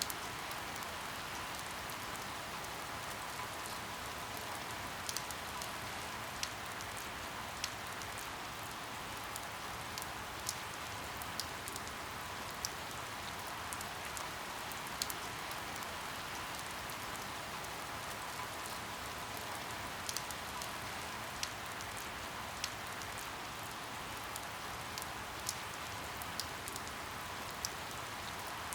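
Steady rainfall with single drops tapping sharply every second or so.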